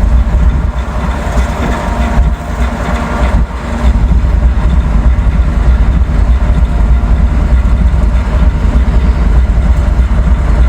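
Heavy wind buffeting on the microphone, a steady low rumble, over the steady running of a diesel locomotive during a switching move.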